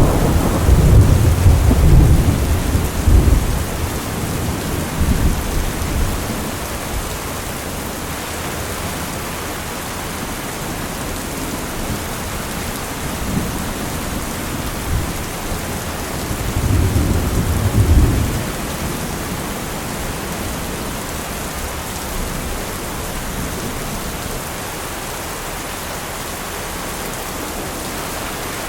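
Steady heavy rain with rolling thunder: a long low rumble in the first few seconds and another about two-thirds of the way through, the rain hiss continuing evenly underneath.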